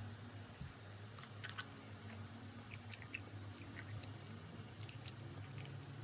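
A person chewing food, with small crisp crunches and clicks scattered through, over a low steady hum.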